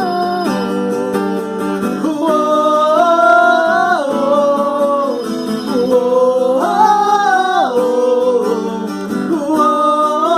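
Acoustic guitar being strummed under a singing voice that holds long notes, stepping and gliding up and down.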